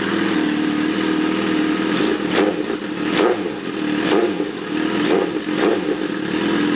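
2007 Suzuki GSX-R1000's inline-four engine idling through an M4 aftermarket exhaust, a steady note with about five short, light surges like small throttle blips from about two seconds in.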